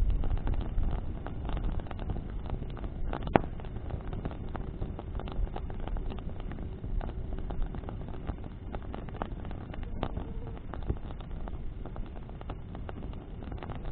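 Bonfire burning, its wood crackling with many small snaps and one sharp pop about three and a half seconds in, over a low rumble of wind on the microphone.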